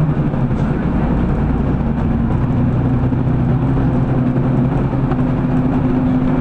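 City bus running, heard from inside the passenger cabin: a steady low rumble of engine and road noise, with a drivetrain tone that slowly rises in pitch from about two seconds in as the bus picks up speed.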